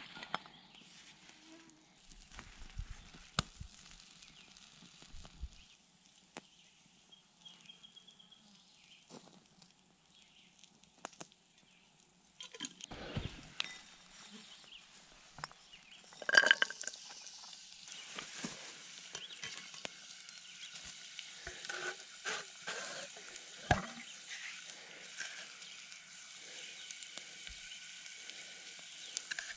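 Pieces of young burdock stem frying in olive oil in a pot: a steady sizzle that starts with a sharp loud burst a little past halfway. Before it, scattered light clinks and knocks of handling.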